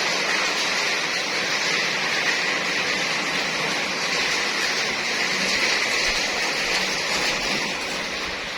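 Steady rush of running water, as from a tap flowing.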